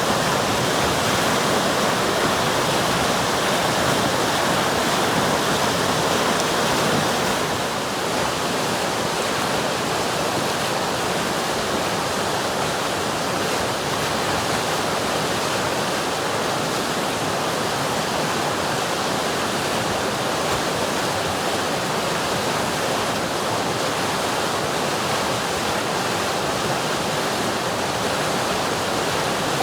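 River water flowing in a steady, even rush, a little softer from about seven seconds in.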